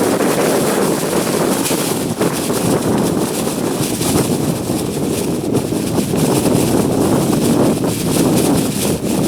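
Steady wind noise rushing and buffeting on the microphone.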